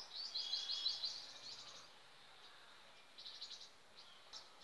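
A bird chirping in rapid runs of high notes, a longer run in the first two seconds and shorter ones about three and four seconds in.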